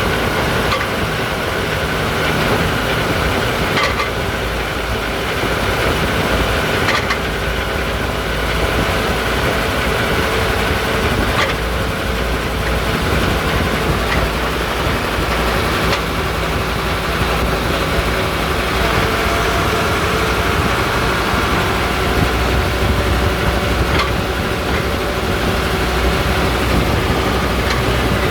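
Setra S80 bus running steadily, with an occasional sharp knock every few seconds: the rear-axle rattle (klappern) that the owner is documenting.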